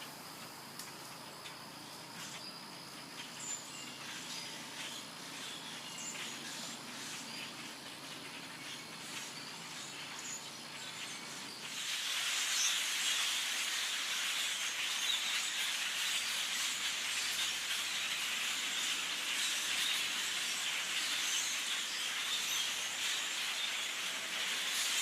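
Large flock of birds calling all at once in the trees, a dense, hissing cacophony of overlapping chirps. It grows clearly louder about halfway through.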